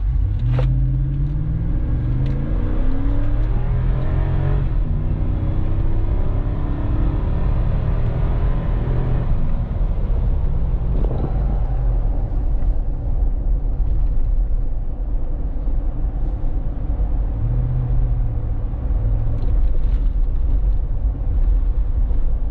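Lexus GX460's 4.6-litre V8 with a Magnaflow exhaust, heard from inside the cabin, accelerating hard from a take-off. The engine note rises in pitch, drops at an upshift about four seconds in, and climbs again to about nine seconds. It then settles into a steadier drone, with another brief rise later on.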